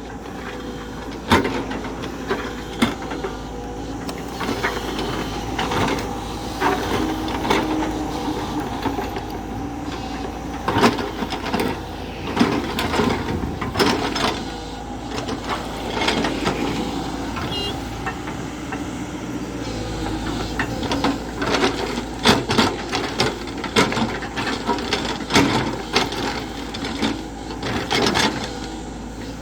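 JCB backhoe loader's diesel engine running steadily under work, with repeated sharp metallic clanks and knocks scattered throughout.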